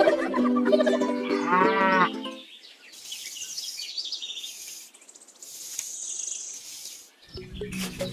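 A cow mooing for the first two seconds or so, one drawn-out call bending in pitch, over light music. Then quieter high-pitched chirps and hiss, with music coming back in near the end.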